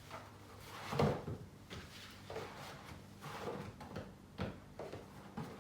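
Light knocks and scrapes of decorations being set down and shifted on a fireplace mantel, several in a row, the loudest about a second in.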